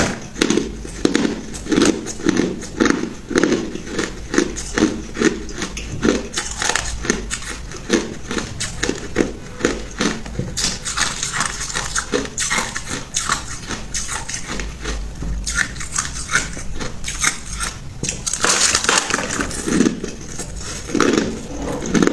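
A person biting and chewing hard ice close to the microphone: a fast, continuous run of crunches and cracks, with a couple of louder, crackly stretches of breaking ice partway through and near the end.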